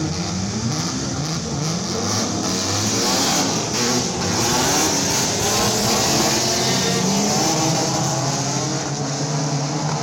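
Race car engine revving hard at speed, its pitch rising and falling as it pulls through the gears, a little louder through the middle.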